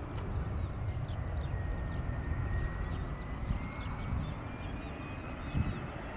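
Distant whine of a Cessna Citation Latitude's twin turbofan engines on approach: a faint high steady tone that dips a little and then slowly rises in pitch, over a low rumble. Small birds chirp in quick short calls throughout.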